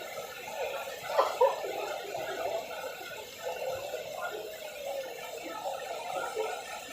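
Indistinct background voices of people talking, with two brief louder sounds a little over a second in.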